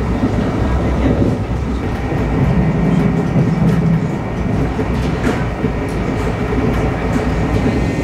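Brightline passenger train running at speed, heard from inside the coach: a steady rumble of wheels on rail with occasional light clicks. The rumble grows louder for a second or so about two and a half seconds in.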